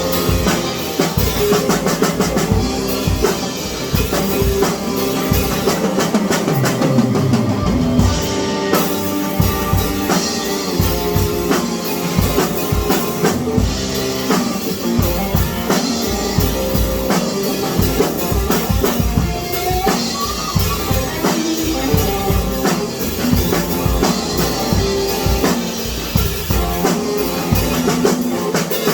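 Rock music with a drum kit and guitar, the bass drum keeping a steady beat.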